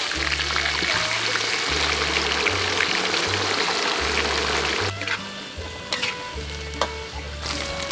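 Garlic and oil sizzling in a hot wok as raw chopped meat is tipped in, over background music with a stepped bass line. About five seconds in the sizzle falls away, leaving the music and a few light clicks of the metal spatula against the wok.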